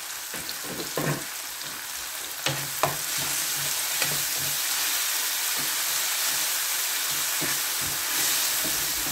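Onion, tomato and green-chilli masala sizzling in a frying pan while a spatula stirs it, with a few short scrapes of the spatula on the pan. The sizzle grows louder about two and a half seconds in.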